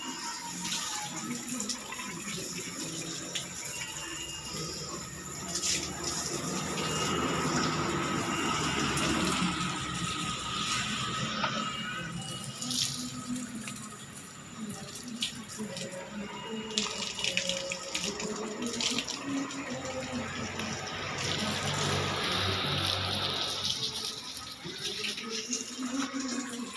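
Running water splashing over a motorcycle as it is washed, a steady spray with scattered clatter.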